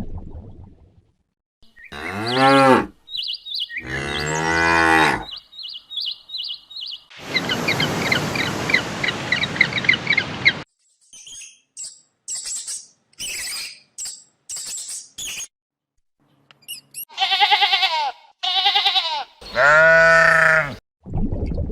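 A run of separate animal calls, each a second or two long with short gaps between them, including cows mooing with falling pitch and several short, high chirping calls.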